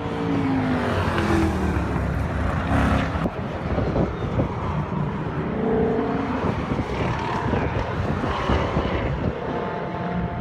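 Muscle-car engines on a racetrack, cars taking a corner one after another, the engine note falling and rising in pitch as they slow for the turn and power out.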